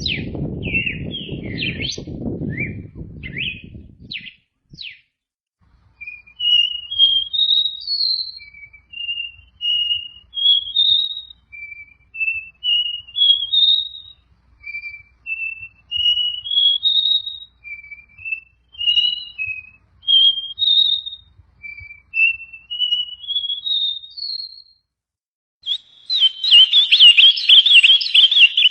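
Songbird singing, repeating a phrase of short whistled notes that climb step by step in pitch, about every two to three seconds. It opens with a few sharp chirps over a low rumble, and near the end gives way to a loud, fast warbling trill.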